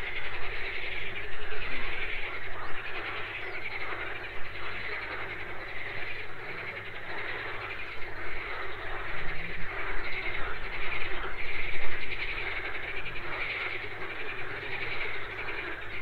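A dense, continuous chorus of many animals calling at once, swelling and dipping in loudness, over a low steady hum.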